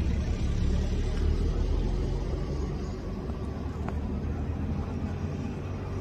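Low, steady rumble of an Indian Railways electric-locomotive-hauled train approaching in the distance.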